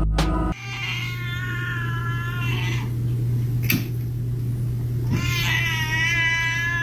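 A cat giving two long, drawn-out meows a couple of seconds apart, over a steady low hum, with a brief click between them.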